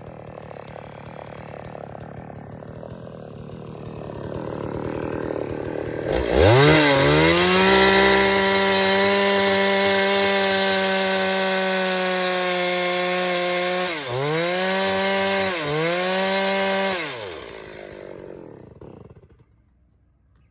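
Chainsaw engine running quietly, then revved hard about six seconds in and held at a steady high pitch for about eight seconds. The pitch dips and recovers twice, then the throttle is released, the note falls away and the engine goes quiet near the end.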